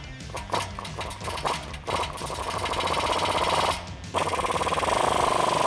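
Impact wrench hammering on a rusty exhaust flange bolt as it backs it out: short stop-start spurts at first, then longer runs, with a brief pause about four seconds in before it runs steadily again.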